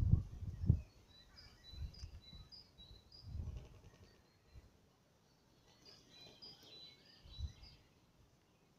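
Small birds chirping in short high notes repeated every half second or so, over outdoor background noise, with a few low rumbles, the loudest near the start.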